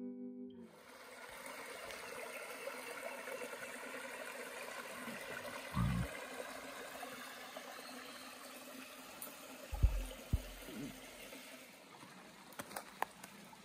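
Creek water running and trickling steadily, with a few low thumps about six and ten seconds in.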